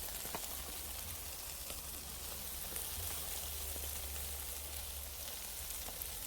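Steady outdoor hiss with a constant low rumble and a few faint ticks scattered through it.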